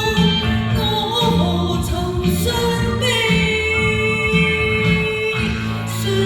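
A woman singing with instrumental accompaniment, holding long notes, one for about two seconds in the middle.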